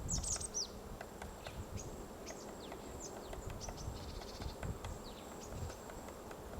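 Faint, irregular taps of a white-backed woodpecker chipping at wood with its bill while excavating a nest hole. Short, high, downward-sliding chirps of small birds come through the taps, in a quick cluster at the start and then one by one, over a thin steady high hum.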